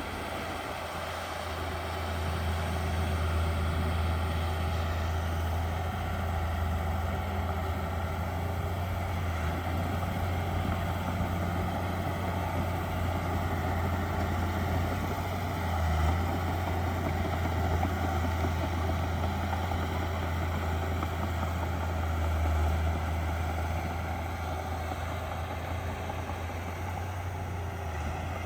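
Heavy diesel engine of earthmoving machinery running steadily, a low drone that swells slightly a few times.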